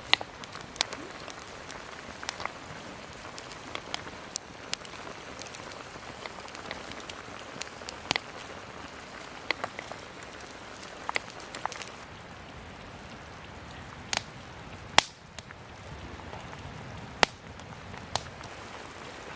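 Wood campfire crackling: a steady hiss with irregular sharp pops, one louder pop about three-quarters of the way through.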